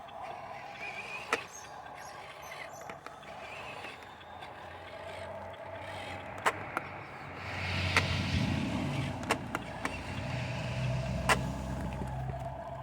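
Huina 1573 radio-controlled dump truck's electric motor whining steadily, with a few sharp clicks. From about seven and a half seconds in, a louder gritty rumble of gravel shifting joins it.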